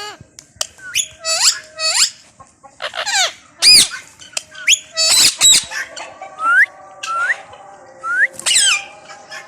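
Indian ringneck parakeets calling: a run of harsh squawks and screeches, then several short rising whistled notes with another squawk among them in the second half.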